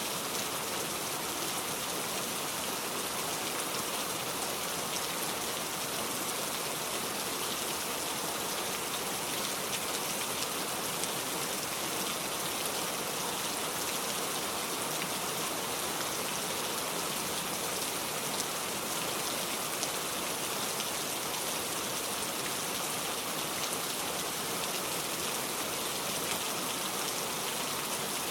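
Steady rain, an even hiss scattered with small drop ticks that holds at the same level throughout.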